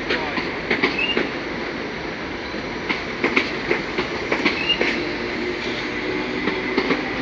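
Class 319 electric multiple unit pulling out on the move, its wheels clattering irregularly over rail joints and points, with a few short high wheel squeals.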